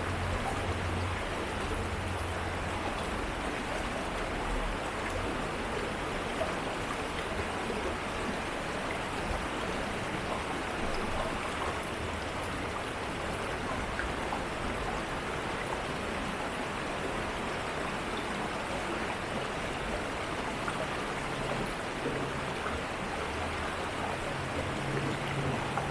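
Steady rushing of an urban stream's flowing water, even and unbroken, with a faint low hum at the start and again near the end.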